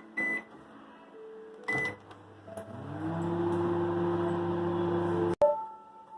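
Convection microwave oven being set to grill mode: short keypad beeps, then its motor hum starts about two seconds in, rises in pitch and settles into a steady drone. The hum cuts off abruptly about five seconds in.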